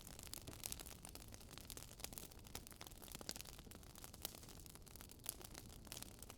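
Burning firewood crackling: scattered sharp pops and snaps at irregular moments over a faint steady hiss.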